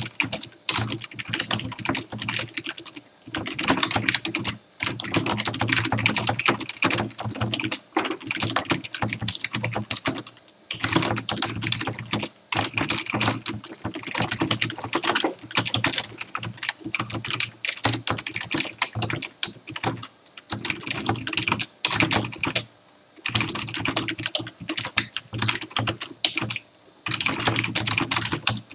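Typing on a computer keyboard: fast runs of key clicks broken every few seconds by short pauses.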